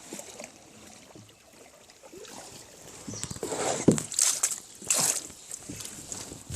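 Water splashing and sloshing, with a run of irregular, louder splashes about three to five seconds in.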